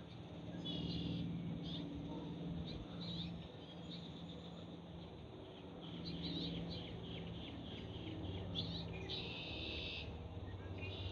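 Small birds chirping and twittering in short repeated calls, busiest near the end, over a low steady hum.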